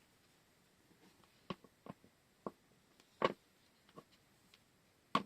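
Scattered light taps and clicks of small objects being handled on a table, about six in all, the loudest a little past three seconds in.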